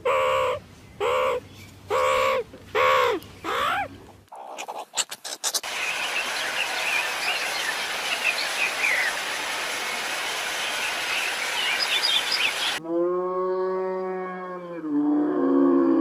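Geese honking in a run of about five loud calls, then a flock of small birds chirping together after a brief cut, and near the end a long, low, drawn-out call from a large farm animal, dropping lower at the last.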